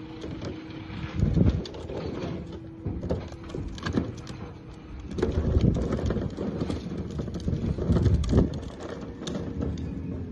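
Garbage truck working: its engine and hydraulics run with a steady whine while irregular clanks and heavy thuds come from the lifting arm and a cart being dumped into the hopper.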